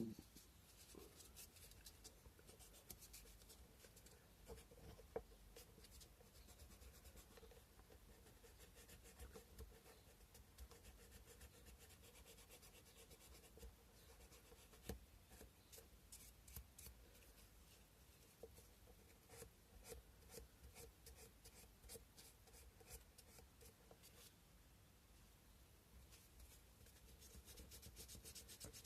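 Faint scratching of sandpaper rubbed by hand over a cow-bone carving, in many short, irregular strokes.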